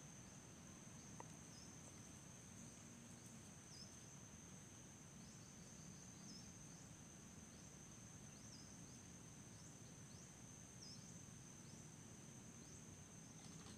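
Faint rural outdoor ambience: a steady high-pitched insect drone, with short high chirps repeating irregularly about once a second.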